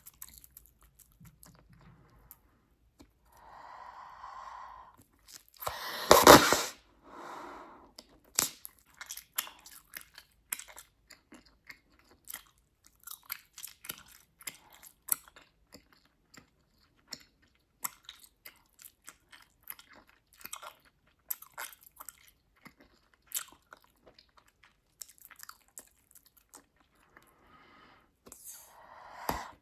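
Bubblegum being chewed with many quick wet clicks and snaps, and a loud pop about six seconds in as a bubble bursts.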